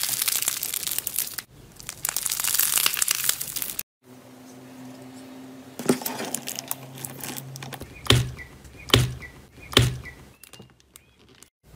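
Crunchy slime being squeezed and kneaded, with a dense crackling and crinkling. After a cut, a quieter stretch of slime handling ends with three sharp pops about a second apart.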